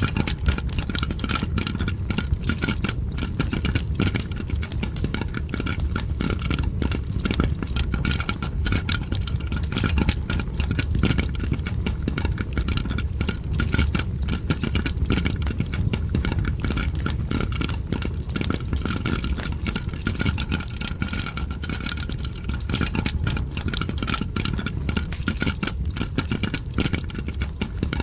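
Popcorn popping mixed with a crackling fire: dense, rapid pops and crackles over a steady low rumble, without a break.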